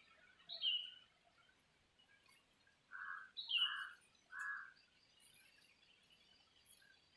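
Birds calling: a couple of short down-slurred chirps and a run of three lower, evenly spaced notes a little past the middle, over faint high scratchy rustles.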